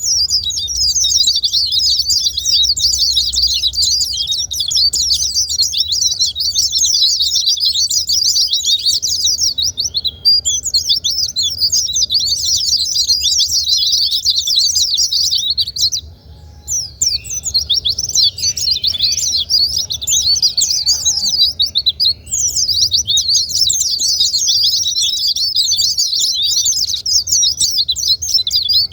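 Fast, dense twittering song of white-eyes (pleci): a continuous stream of high chirps with a brief pause a little past the middle, over a faint low hum.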